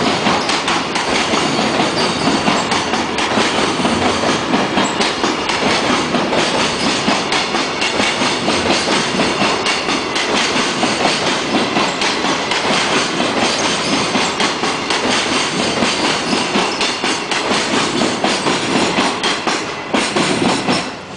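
Freight container train's wagons rolling past at speed, wheels clattering rapidly over the rail joints. Near the end the noise drops off suddenly.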